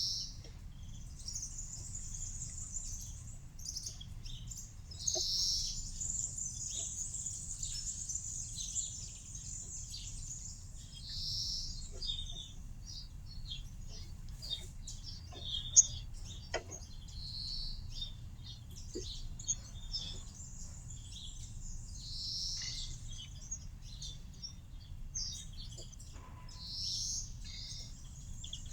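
Small songbirds chirping and trilling over and over in short high calls, with scattered sharp ticks, the loudest about sixteen seconds in, over a steady low background noise.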